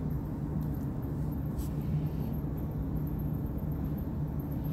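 Steady low background hum with a constant low tone.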